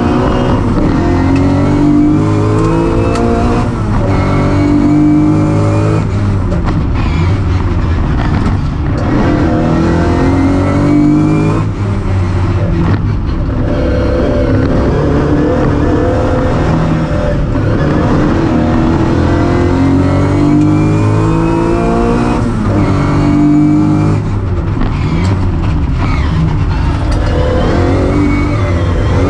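Competition car's engine heard from inside the cockpit at full effort, its pitch climbing and dropping over and over as the driver shifts gears and lifts for corners.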